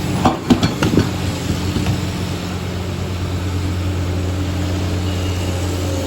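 A motor vehicle's engine running steadily with a low hum, with a few short knocks in the first second.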